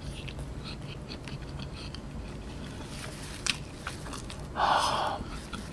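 Close-up chewing of a charcoal-bun chicken burger, with soft wet mouth clicks. A brief, louder rustle comes a little after four and a half seconds in, as a paper tissue is wiped across the mouth.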